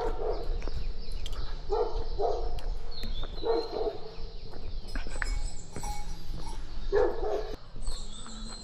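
A dog barking about five times in short, separate barks, over a steady low rumble.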